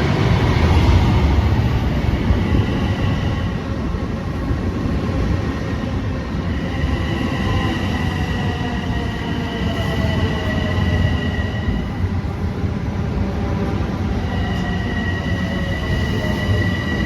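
Long Island Rail Road train running through the station at close range, with high wheel squeals that come and go and a fainter whine slowly falling in pitch.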